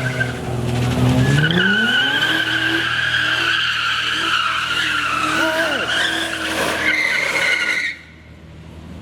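Car tyres squealing in a sustained burnout or slide, with the engine revving up about a second in; the sound cuts off abruptly near the end.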